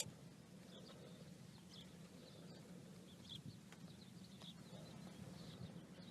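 Faint, repeated short chirps of small birds over a low steady hum.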